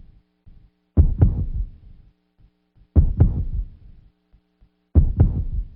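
Deep double thumps in a heartbeat rhythm: three pairs about two seconds apart, each pair two hits close together that die away. A faint steady low hum lies underneath.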